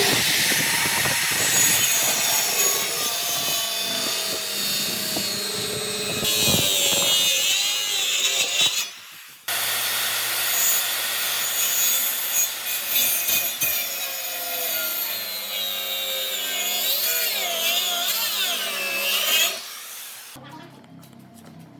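A power tool cutting or abrading wood, its motor pitch wavering as the load changes. It stops abruptly about nine seconds in, starts again at once, and fades near the end.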